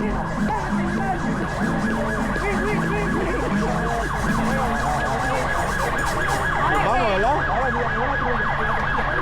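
Several emergency-vehicle sirens sounding at once, their pitches sweeping up and down in overlapping wails and yelps, with a steady high tone held beneath them.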